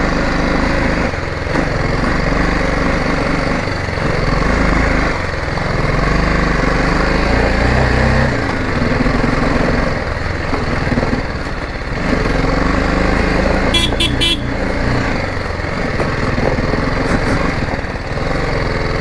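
Motorcycle engine running as it is ridden up a muddy off-road track, its note shifting now and then. A quick cluster of short, high beeps sounds about two-thirds of the way through.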